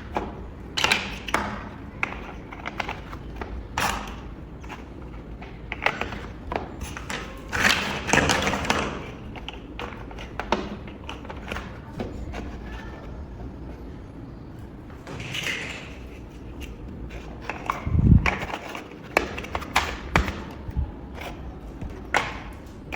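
Plastic building bricks being handled and snapped together: irregular clicks and taps, with a few stretches of rustling, and a heavier thud about eighteen seconds in.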